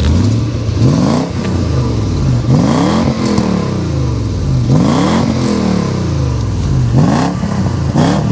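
Lexus LX470's 4.7-litre 2UZ-FE V8, heard right at the tailpipe, revved from idle about four times, roughly every two seconds. Each rev rises quickly and falls back to idle.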